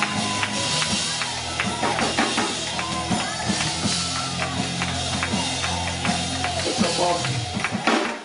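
Live church band playing under the preaching: a drum kit with kick and snare strokes over steady held low chords.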